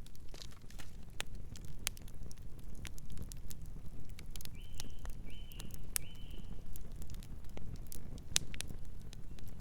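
Campfire crackling with irregular sharp pops over a low steady rumble. About halfway through, a nocturnal bird chirps three times in quick succession.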